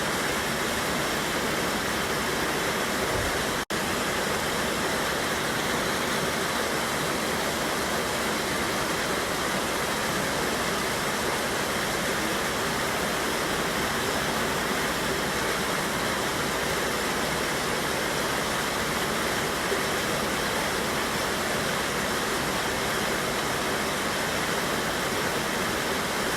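Mountain river water rushing steadily over a small waterfall, an even unbroken roar. The sound drops out for an instant about four seconds in.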